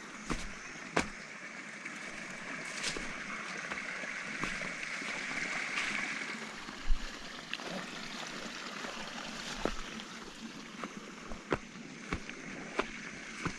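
Footsteps on dry ground and vegetation, irregular crunching clicks, over a steady outdoor hiss that swells midway through.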